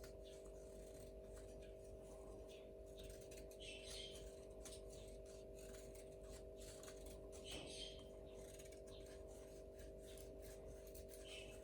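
Near silence: a steady low hum with faint ticking, and a few brief, faint high-pitched sounds spaced a few seconds apart.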